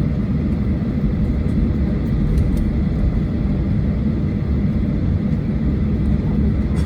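Boeing 737-800 airliner's CFM56 jet engines running, a steady low rumble with a faint thin whine above it.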